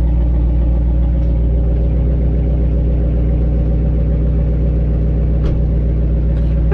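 Dodge Charger R/T's 5.7 Hemi V8 idling through its exhaust after a cold start, a steady, loud low rumble.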